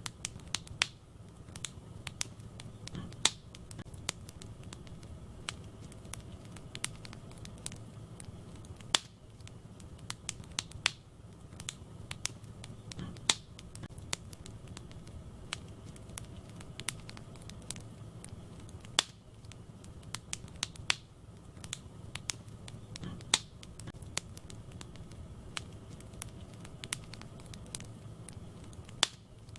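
Wood fire burning in a fireplace: irregular sharp crackles and pops, a few a second with some louder snaps, over a soft steady rumble of the flames.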